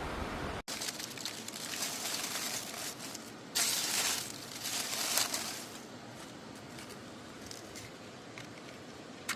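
Crunching and crinkling handling sounds with scattered clicks, loudest from about three and a half to five and a half seconds in, then quieter single clicks.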